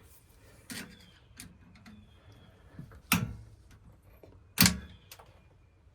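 A handful of sharp knocks and clicks of tools and hardware being handled during electrical wiring work, the two loudest about three and four and a half seconds in.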